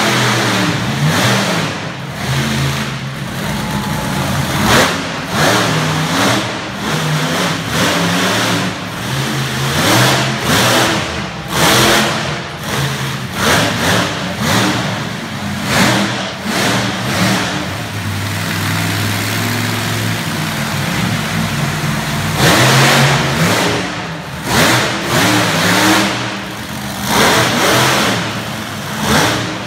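Monster truck engine revving hard over and over, throttle surging every second or two, with a briefly steadier run about two-thirds of the way through.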